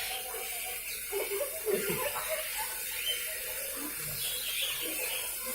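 Steady running and splashing water, with a few short bird chirps over it.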